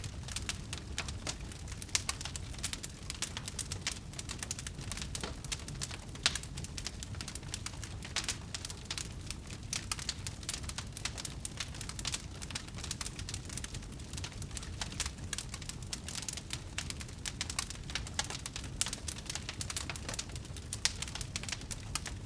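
Wood fire crackling in a fireplace: a dense patter of small crackles with a few louder single pops, over a low steady rumble of the flames.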